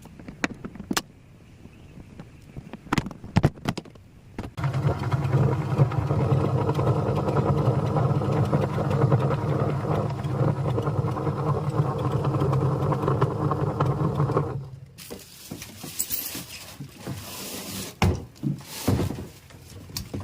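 Toshiba twin-tub washing machine's wash motor running with a loud, steady hum for about ten seconds, then switching off suddenly: the noise the machine makes while washing. A few clicks come before the motor starts, and a softer rustling noise with knocks follows.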